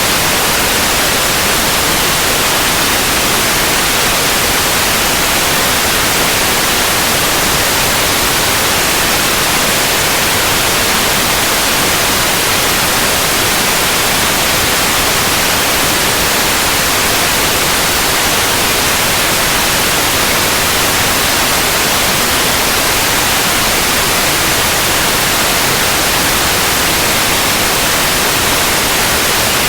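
Continuous white noise: a steady, even hiss across the whole range, unchanging.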